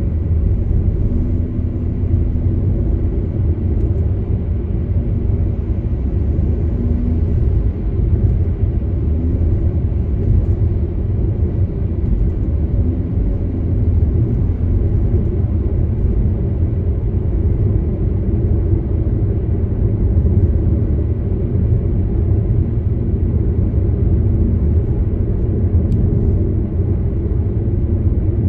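A car driving along with a steady low rumble of tyres and engine.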